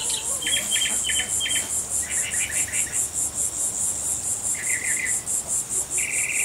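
An insect right by the microphone, which the man takes for a cricket, chirping a steady high-pitched pulsing trill at about five pulses a second. Short bird chirps and trills come and go several times beneath it.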